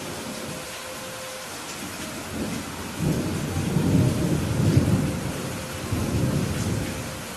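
Steady rain hissing, with a roll of thunder rumbling in about three seconds in. The thunder swells to its loudest around the middle and fades near the end.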